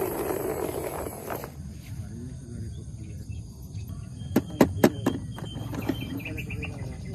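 A quick cluster of four or five sharp clicks or knocks a little past halfway, over a low steady hum, followed by faint short chirps.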